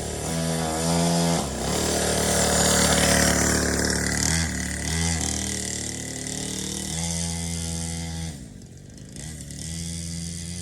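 Dirt bike engine revving, the throttle blipped again and again so the pitch rises and falls in repeated surges; it drops back toward idle about eight seconds in, then is revved again.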